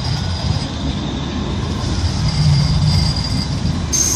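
Manchester Metrolink Bombardier M5000 tram pulling into the platform: low running rumble with a thin, high wheel squeal that comes and goes. A short, sharp high-pitched burst near the end.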